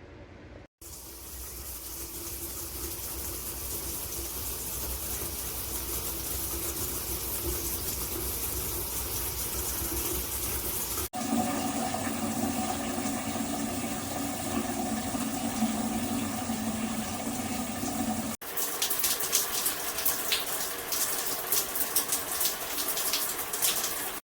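Water spraying hard from a handheld shower head, a steady rush, in three short cuts. The middle cut carries a steady hum under the spray, and the last has a more spattering sound.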